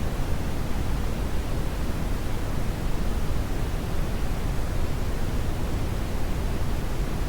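Synthetic brown noise: a steady, even rushing hiss weighted heavily toward the deep low end, with no tones or events.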